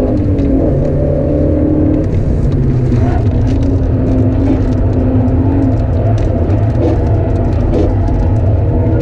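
A 1997 Alfa Romeo GTV 2.0 Twin Spark's four-cylinder engine, heard from inside the cabin, running at lower revs as the car slows from about 86 to 63 km/h into a corner, with a drop in pitch about two seconds in.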